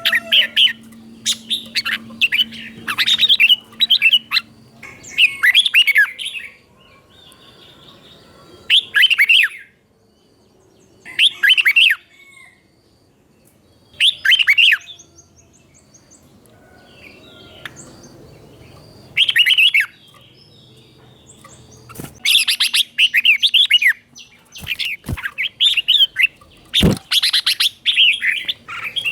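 Red-whiskered bulbul singing in short bursts of quick, warbled phrases separated by pauses of a second or more, with a few sharp knocks in the last third.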